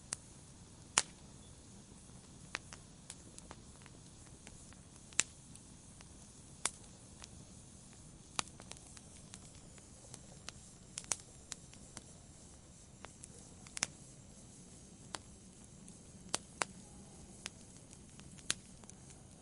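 Campfire crackling: sharp, irregular pops and snaps of burning wood, a dozen or more spread unevenly, over a low steady hiss of the fire.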